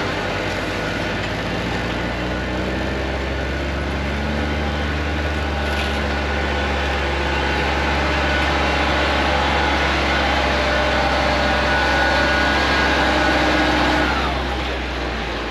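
A heavy machine's engine running steadily under load, its pitch and loudness rising slightly, then dropping away as it throttles down near the end.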